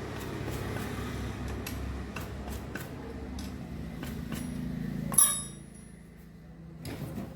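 A steady low mechanical hum, then about five seconds in a single sharp metallic clink of a tool striking metal that rings briefly. After the clink the hum drops away.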